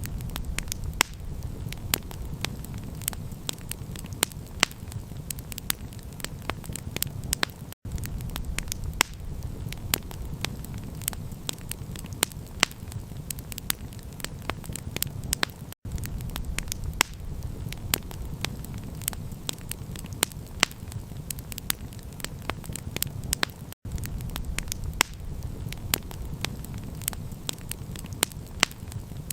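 Wood campfire crackling, with many sharp pops and snaps over a low, steady rumble. The sound cuts out for an instant about every eight seconds.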